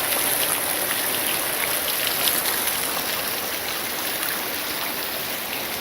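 Heavy rain falling steadily: a dense, even hiss with scattered ticks of drops.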